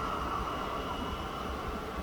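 Electric suburban train running, a steady rumble with thin high tones held over it.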